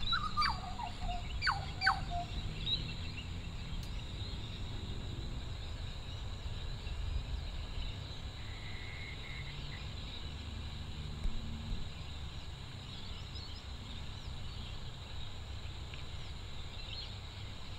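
Birds calling over a steady low rumble of background noise. Several sharp, quickly falling calls come in the first two seconds, then only a brief faint call and scattered faint chirps.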